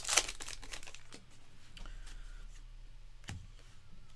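A trading card pack wrapper crinkling briefly at the start, then baseball cards being handled and flipped, with soft clicks and rustles and one sharper tap a little over three seconds in.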